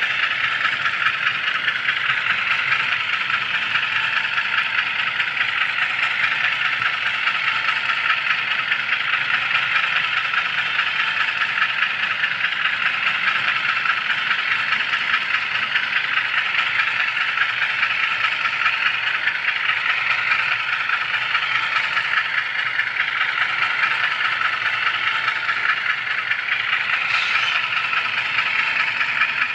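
HO scale camera car rolling along model railroad track, its wheels and running gear making a steady, close-up rattling whir on the rails.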